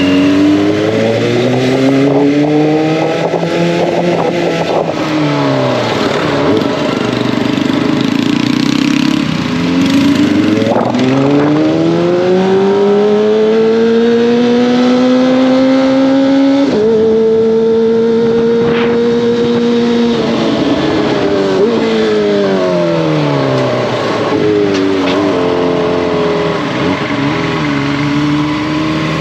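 Kawasaki ZX-25R's 250 cc inline-four engine and exhaust heard from the riding motorcycle, the revs climbing and falling several times as it accelerates and slows through the gears. About two thirds in, a sudden step in pitch leads into a short, steady stretch. Near the end, quick rises and falls in revs come as it slows.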